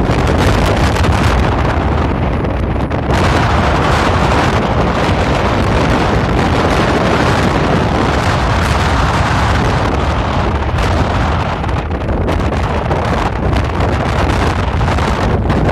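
Strong wind buffeting the microphone, loud and steady, with a stronger gust from about three seconds in that eases off again after about ten seconds.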